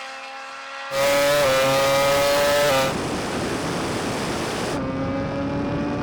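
High-speed drag racing vehicles at full speed: a steady high-pitched engine or motor tone over rushing wind and road noise, cut abruptly between shots about a second in, near three seconds and near five seconds.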